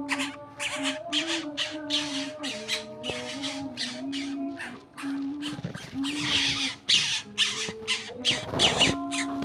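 A tame coucal squawking over and over in short, harsh, noisy calls, about three a second, against background music with a held melody. A louder noisy burst comes near the end.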